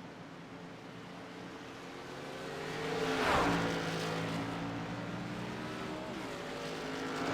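Racing truck engine passing close about three seconds in, its pitch dropping as it goes by, then running on steadily with another drop in pitch a little before the end.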